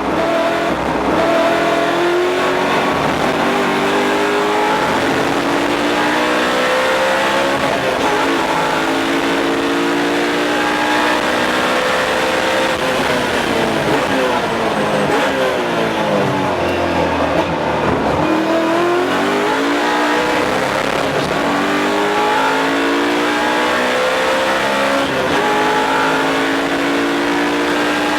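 BMW M3 GS race car's V8 heard from inside the car at full throttle, climbing through several upshifts, then dropping through a quick series of downshifts as it brakes for a slow corner about two-thirds of the way through, and pulling hard up through the gears again.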